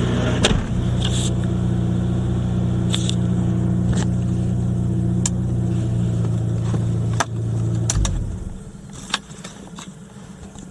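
Daihatsu Copen's JB-DET turbocharged inline-four idling steadily, then switched off about eight seconds in: the engine note sinks and runs down to a stop. Sharp clicks sound now and then over it and in the quieter stretch afterwards.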